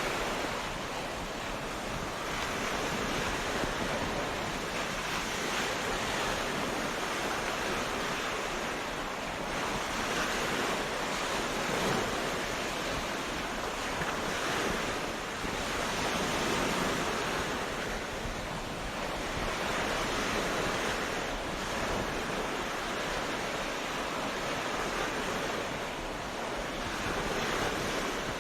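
Ocean surf on a beach: waves breaking and washing in continuously, swelling and easing every few seconds.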